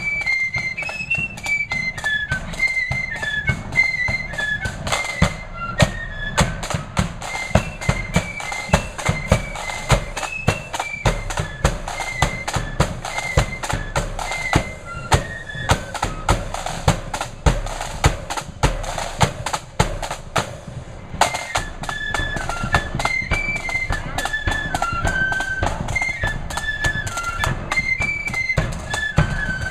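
A flute band playing a tune: a high flute melody over a steady, driving beat of drums.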